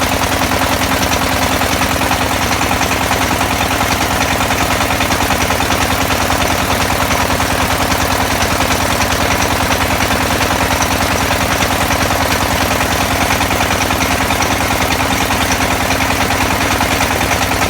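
XY-1B well-drilling rig running steadily, its motor giving a fast, even pulse that does not change.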